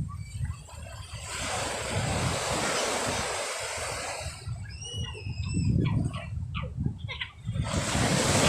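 Sea waves washing in and surging on the shore, with wind buffeting the microphone. In the second half a few short, high, arching calls sound over the low rumble of the surf.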